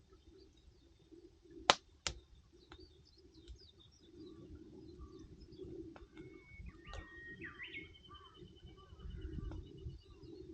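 Wood campfire with two sharp pops of burning firewood about two seconds in, while small birds chirp and one gives a long rapid trill in the second half.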